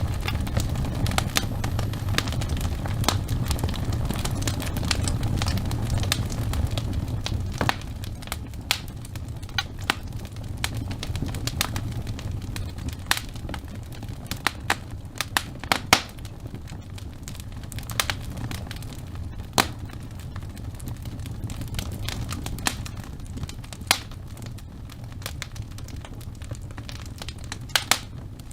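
Fire burning in a fireplace: a steady low rumble of flames, louder for about the first seven seconds, with sharp crackles and pops scattered throughout and a few standing out loudly.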